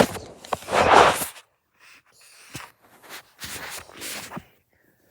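A child making breathy mouth noises without words: a loud rush of breath lasting about a second and a half, then two softer breathy huffs near the end.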